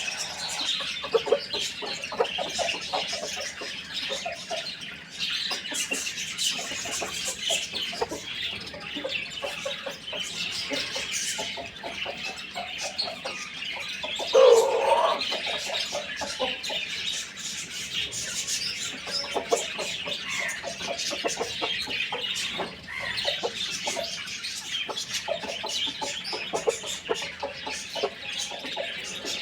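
Chickens clucking as they feed, against a steady chatter of high chirping throughout. One louder, longer chicken call about halfway through.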